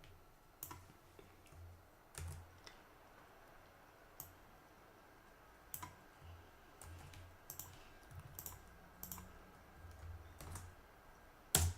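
Faint typing on a computer keyboard: scattered, irregular key clicks, a little busier in the second half, with one louder click near the end.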